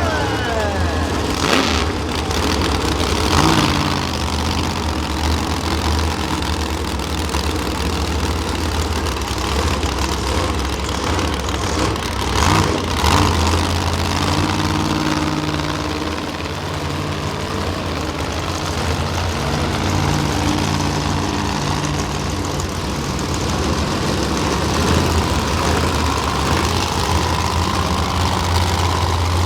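Monster truck engines running steadily at idle, with a few sharp cracks in the first seconds and again about twelve seconds in.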